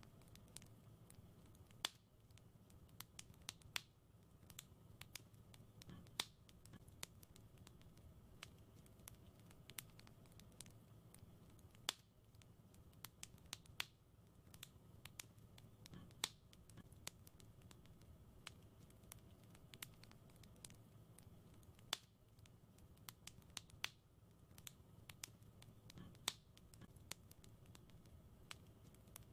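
Wood fire crackling quietly: irregular sharp snaps and pops, a few louder ones every several seconds, over a soft low rumble of burning.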